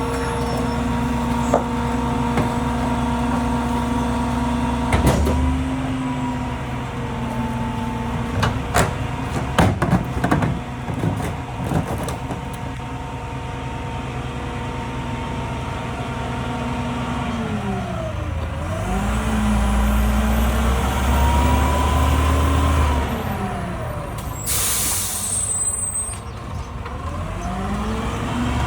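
Mack LEU rear-loader garbage truck's diesel engine running steadily at raised revs, then a stretch of bangs and clatters. After that the engine note falls and rises twice, and there is a short sharp hiss of the air brakes about three-quarters of the way through.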